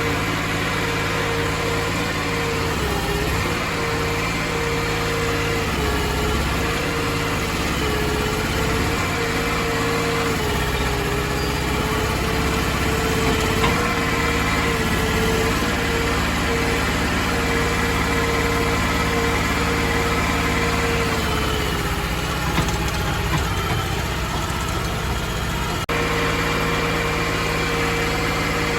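Crawfish boat's engine running steadily, with a steady whine over it that dips slightly in pitch now and then.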